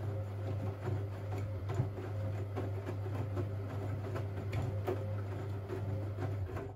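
Siemens Siwamat 6143 washing machine turning its drum during a boil wash: a steady motor hum with irregular clicks and knocks from the tumbling laundry. The drum stops at the very end, the usual pause in the wash rhythm.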